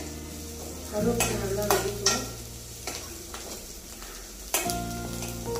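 Chopped onions and freshly added curry leaves frying and sizzling in oil in a metal kadai, stirred with a steel ladle that scrapes and knocks against the pan several times.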